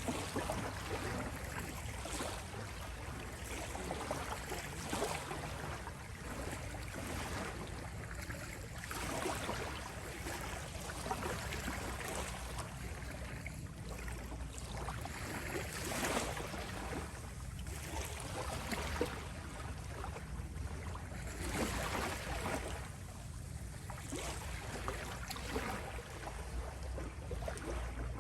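Gentle ocean waves washing onto a beach: a continuous wash of surf that swells softly every two to three seconds over a steady low rumble.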